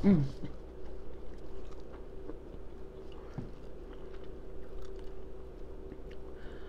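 Close-miked chewing and lip-smacking of food, with small wet clicks scattered throughout. A short falling vocal sound comes right at the start.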